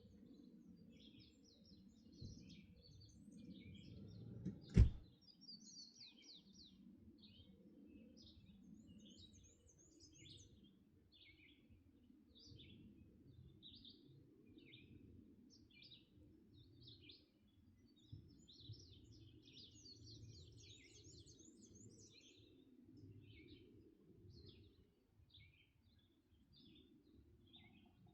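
Several songbirds singing and calling in short, repeated phrases over a low, steady rumble, with one sharp thump about five seconds in.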